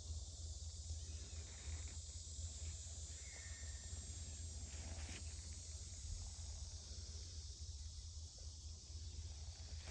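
Quiet forest ambience: a steady high hiss over a low rumble, with one short high chirp about three seconds in and a faint rustle near five seconds.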